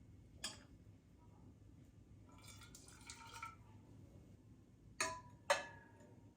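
Light kitchenware clinks: a sharp clink with a brief ring about half a second in and two more close together near the end, with softer handling sounds in between.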